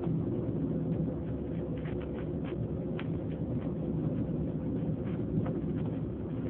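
Steady low rumble of a train running, heard from inside the carriage, with a few faint light clicks.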